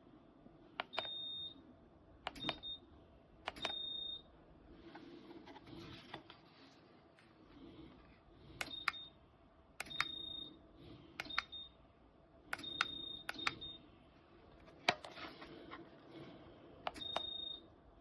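Buttons on a Dreo space heater's control panel being pressed again and again, each press a sharp click followed by a short, high electronic beep, some beeps held a little longer, at irregular intervals of a second or two. This is the beeping that confirms each setting change.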